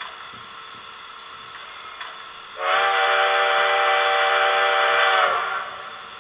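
Model locomotive sound decoder (ESU LokSound) playing the JR Freight EF210 electric locomotive's horn through the model's small onboard speaker: one steady blast of about three seconds, beginning a little over two seconds in, over a faint steady running sound.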